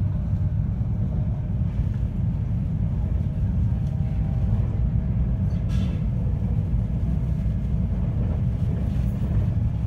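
JR West 521 series electric train running along the line, heard from inside the car: a steady, deep rumble of the wheels on the rails and the running gear.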